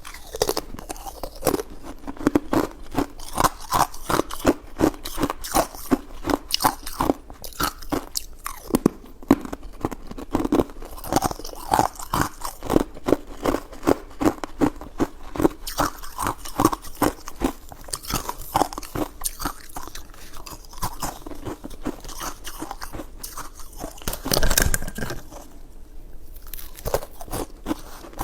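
Close-up eating sounds: rapid, irregular crunching and chewing of food, with a louder burst near the end.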